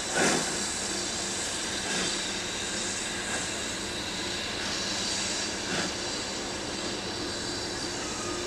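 A steam-hauled train, behind the Britannia-class locomotive Oliver Cromwell, passing close by: a steady rushing rumble with no clear beat of exhaust beats.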